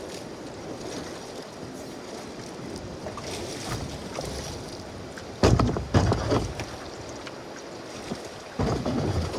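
Canoe moving down a river: a steady rush of water and wind. Loud bumps come about five and a half seconds in, again around six seconds, and near the end.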